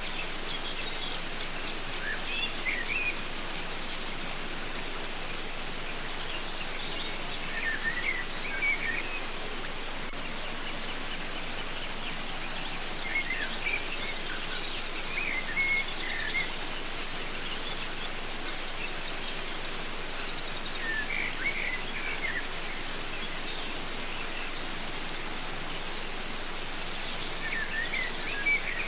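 Waterfall rushing steadily, with a songbird calling in short bursts of chirpy notes every few seconds.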